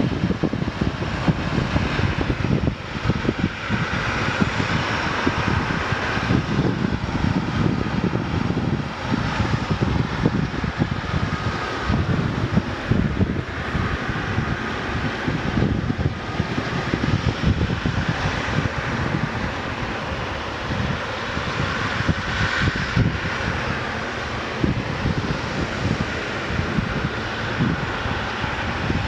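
Jet airliner engines running steadily, with a fluctuating low rumble beneath a steady mid-pitched hiss; not at takeoff power.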